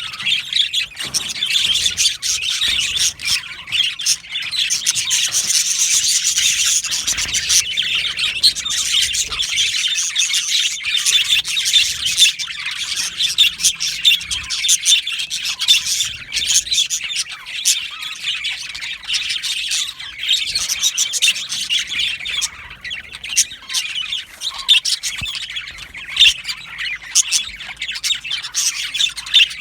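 A flock of budgerigars chirping and chattering continuously, many short overlapping calls with occasional squawks.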